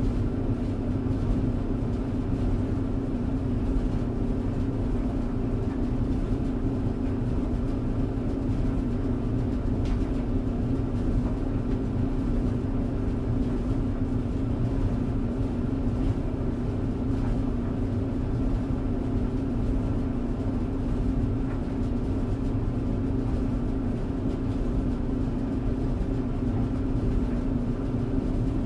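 Clothes tumble dryer running steadily: a continuous motor hum with the low rumble of the turning drum.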